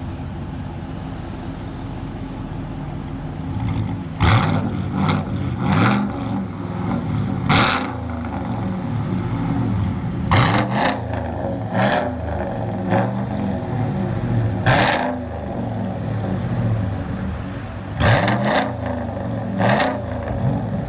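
2018 GMC Sierra Z71's 6.2-liter V8 through a true dual exhaust with Tunnel Ram mufflers, idling steadily at first. About four seconds in the throttle is blipped again and again: a dozen or so quick revs, each rising sharply and dropping back to idle.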